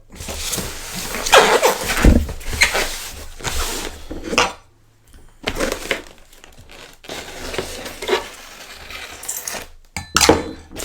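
Styrofoam packaging and tape being cut, pulled apart and handled: irregular scraping, squeaking and rustling, with a short pause midway and a couple of sharp knocks near the end.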